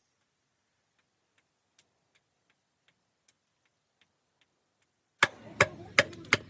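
Faint, irregular ticks, two or three a second, then a little after five seconds loud, sharp hammer blows begin, about three a second, each with a short ringing tone.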